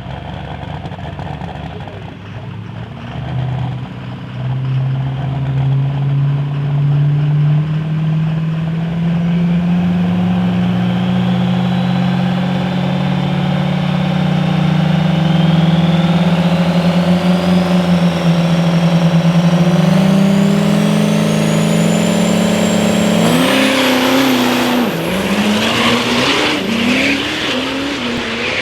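Turbocharged diesel truck engine running under load, its turbo whistle climbing steadily in pitch for over ten seconds. Near the end the sound turns rougher and wavers up and down.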